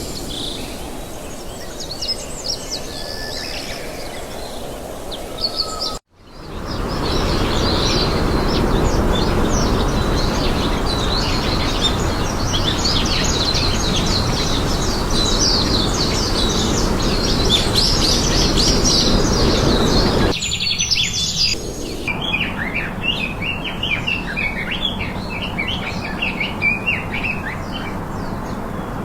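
Many small birds chirping and calling rapidly. Under them is a steady rushing noise that is loud through the middle and drops away about twenty seconds in. The sound cuts out abruptly for a moment about six seconds in.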